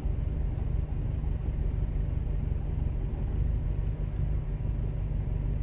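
Toyota Tarago (Previa) van's engine idling, a steady low rumble heard from inside the cabin.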